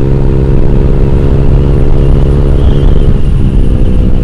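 Honda Vario 150 scooter's single-cylinder engine through an aftermarket Black Devil R2 Seca exhaust, running loud at a steady engine speed.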